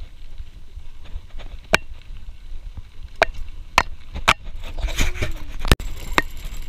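Irregular sharp taps and knocks of a hydration pack's strap and drinking hose hitting the GoPro camera, about six in a few seconds, over a steady low rumble of riding noise.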